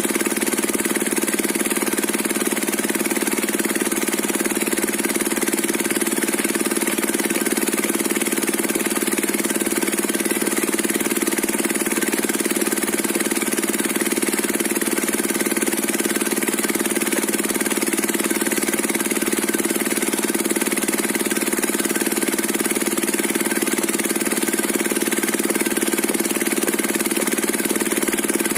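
Stationary diesel engine driving a circular sawmill blade, running steadily at an even pitch.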